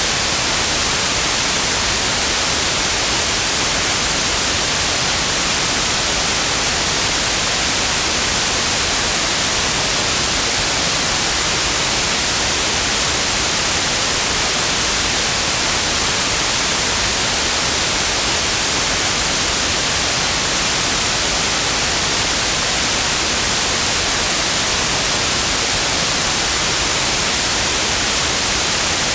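Synthetic white noise: a steady, even hiss with no change or events, strongest in the high frequencies.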